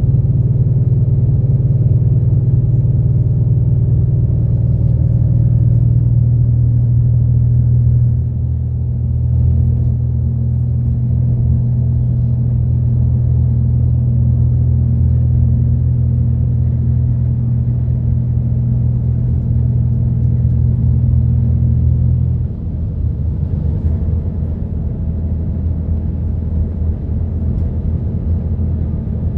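Route bus engine and running noise heard inside the cabin: a steady low drone that shifts in pitch about a quarter of the way in and drops in level about three-quarters of the way in, as the bus changes speed or gear.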